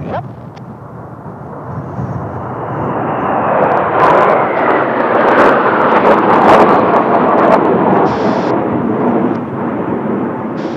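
Kawasaki T-4 jet trainer flying past. Its jet noise swells to a peak about four to seven seconds in and then fades, with a whine that falls in pitch as it goes by.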